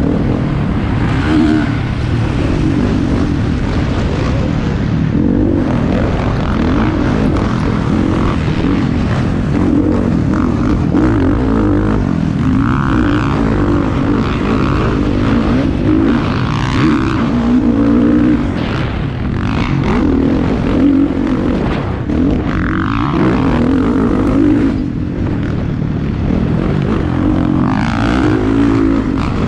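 Motocross bikes racing, engines revving up and down, the pitch rising and falling as riders accelerate and shift. The engine noise is loud and continuous.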